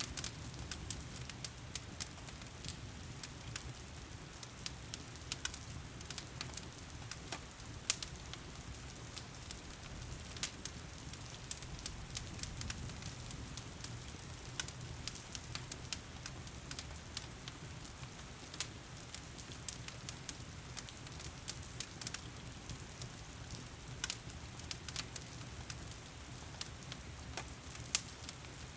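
Log fire crackling and popping, with sharp snaps scattered irregularly throughout, over a steady low hiss of heavy rain.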